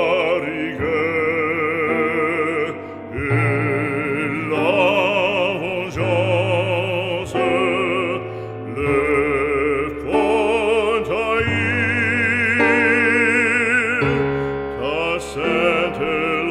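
Operatic singing: a trained solo voice holding long notes with wide vibrato, phrase after phrase, over sustained low accompaniment.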